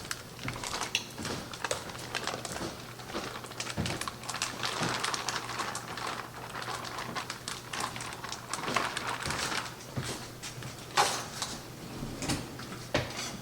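A kitchen utensil scraping and tapping against a baking pan as thick cornbread dressing is spooned in and spread out, with a louder knock about eleven seconds in.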